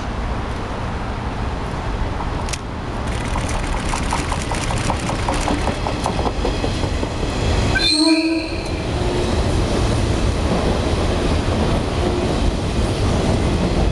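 JR East 485-series electric train passing through the station at speed, its wheels and motors running with a steady low rumble and a regular clatter over the rail joints. About eight seconds in, the train sounds a short blast on its horn.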